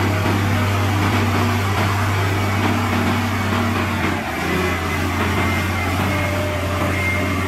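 Heavy diesel engine of earthmoving machinery running steadily, its low note dropping a little about four seconds in.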